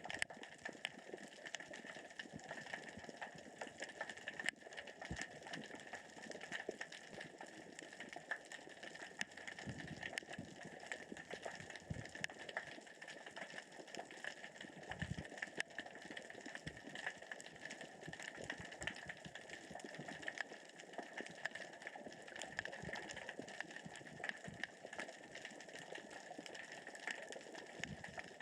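Underwater crackling of small rocks rolling across the sea floor as the current and tide move them: a dense, steady stream of fine clicks with a few soft low knocks.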